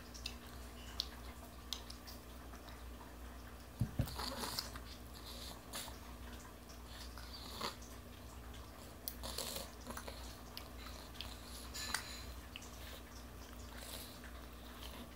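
A toddler chewing and biting food, with small mouth clicks and wet crunching sounds scattered throughout. A single thump about four seconds in is the loudest sound, over a steady low room hum.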